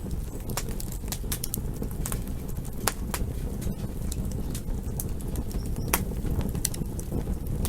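Campfire burning: a steady low rush of flame with sharp, irregular crackles and pops from the burning wood, a few each second.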